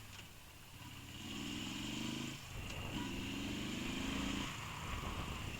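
Dirt bike engine accelerating: two rising revs about a second and a half long each, with a short dip between them, over a steady low engine drone.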